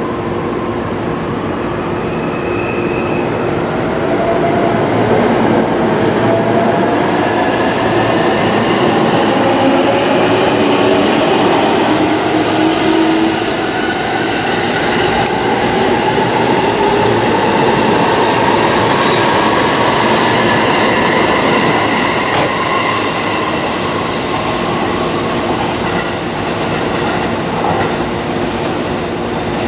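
JR East electric commuter train pulling out along the track, its motor whine rising slowly in pitch as it gathers speed, over the steady rumble of wheels on rail.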